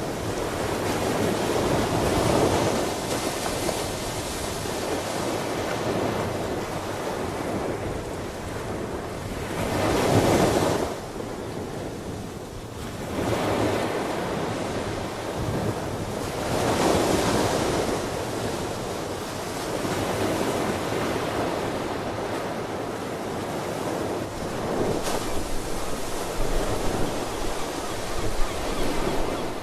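Ocean waves breaking and washing on the shore, in surges every several seconds; the loudest wave crashes about ten seconds in and drops away sharply.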